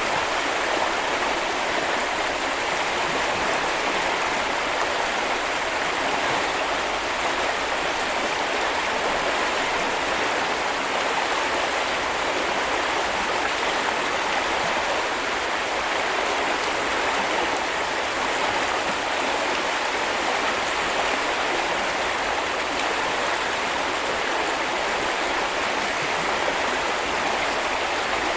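Shallow stream or brook flowing and splashing in a steady rush, unchanging throughout.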